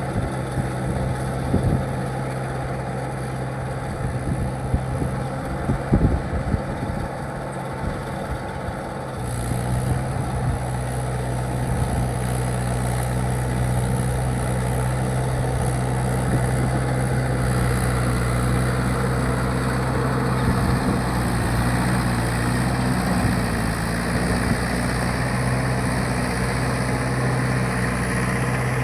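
Mahindra 585 tractor's diesel engine running steadily, with a few short knocks in the first several seconds. It grows louder and fuller about nine seconds in.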